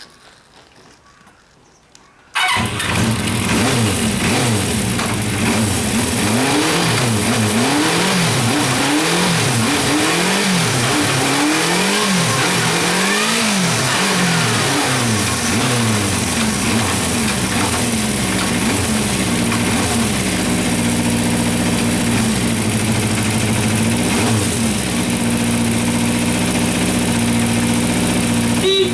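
Honda CB400FOUR's 408cc air-cooled inline-four engine starts up about two seconds in, then is revved in a string of quick throttle blips, each rising and falling in pitch, before settling to a steady idle with one more blip near the end. It revs up cleanly, the sign of an engine in good running order.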